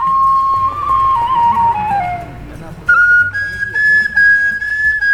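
Background music: a flute playing a slow melody that steps downward, breaks off briefly about two seconds in, then comes back higher and holds long notes.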